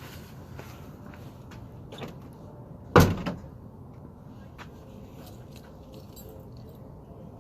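A loud single thump about three seconds in, like a car door shutting, over a steady low rumble with a few lighter clicks and knocks.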